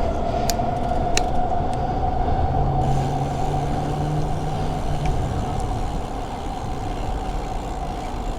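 Street traffic heard from a moving bicycle, with a steady high whine throughout. A heavier vehicle's low rumble passes in the middle.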